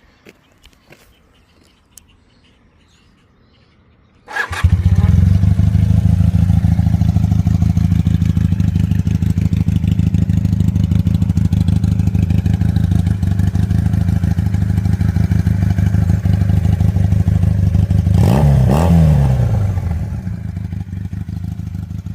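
A 1981 Honda CM400T's air-cooled parallel-twin engine starts about four seconds in after a few faint clicks, then idles steadily. Near the end the throttle is blipped once, the revs rising and falling back.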